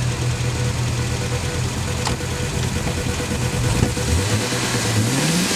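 1980 Porsche 924's four-cylinder engine idling steadily, then revving up with a rising pitch over the last second and a half.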